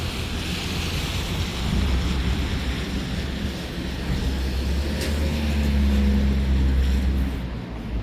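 Street traffic: a motor vehicle's engine rumbling close by, growing louder in the second half and falling away just before the end.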